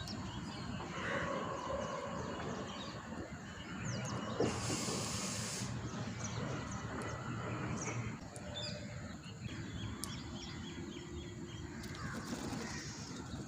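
Birds chirping in short calls over steady outdoor background noise, with a burst of hiss lasting about a second, a little over four seconds in.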